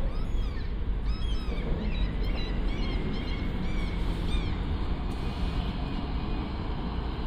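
Birds calling in a quick run of short, arched, high chirping notes that stop about halfway through, over a steady low rumble of city background noise.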